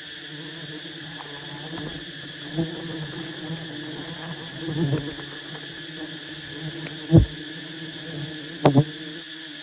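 A swarm of honey bees buzzing steadily, with several dull thumps or knocks; the loudest comes about seven seconds in, and a quick double knock follows near the end.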